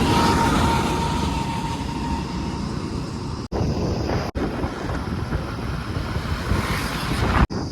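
JCB machine's engine running steadily, a dense low rumble. The sound cuts out abruptly three times, once about three and a half seconds in, again just after, and once near the end.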